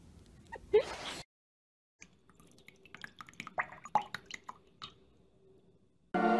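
A short rising cry about a second in, then, after a brief silence, faint dripping and splashing of water as a duckling paddles in a shallow basin. Music comes in right at the end.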